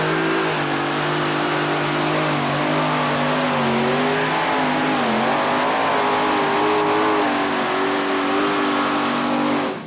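Modified pulling tractor's engine running hard at high revs under load, its pitch wavering up and down and dipping briefly about halfway through. The sound cuts off abruptly near the end.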